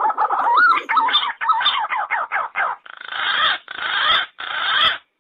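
Recorded green pigeon (punai) calls: a quick run of wavering, bending whistled notes, then several harsher, raspy notes, cutting off suddenly near the end.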